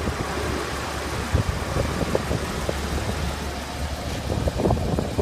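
A car engine idling with a steady low rumble, with scattered light clicks and knocks over it.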